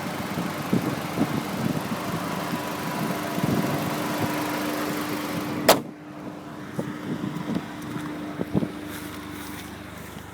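Audi TT's 1.8-litre five-valve turbo four-cylinder idling with a steady hum. About halfway through, a single loud slam, after which the engine sounds quieter and more muffled.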